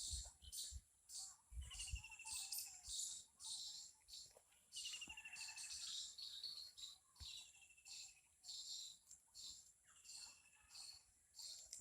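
Insects chirping in quick, evenly repeated high-pitched pulses, with a bird's short, falling trilled call repeating every two to three seconds.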